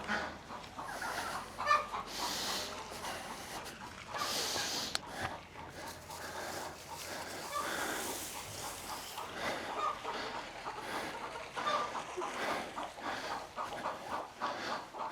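Chickens clucking on and off in short, repeated calls, with two brief bursts of noise in the first five seconds.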